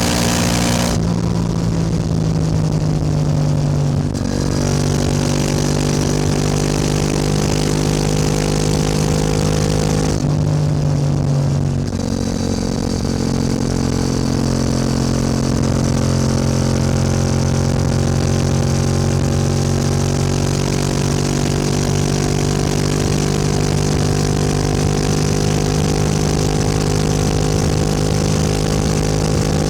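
Yamaha R7 motorcycle engine running while riding, holding a fairly steady note. There are brief shifts in the engine sound about a second in, near four seconds and between about ten and twelve seconds.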